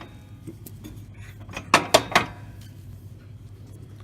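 Light metal clicks and clinks from a lawn tractor's steel drag link being handled on its steering ball joint, the loudest few about two seconds in. The drag link's socket is worn out.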